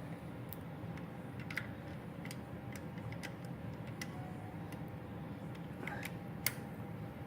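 Scattered sharp metallic clicks of a wrench tightening inlet manifold bolts, irregularly spaced, with two louder clicks about one and a half and six and a half seconds in, over a steady low hum.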